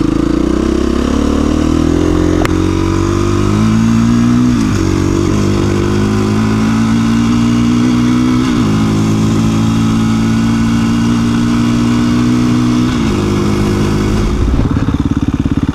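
2017 KTM 350 EXC-F's single-cylinder four-stroke engine pulling away and accelerating. Its pitch climbs and drops sharply at three gear changes, about 5, 9 and 13 seconds in. Near the end it falls to a low, pulsing note as the bike slows.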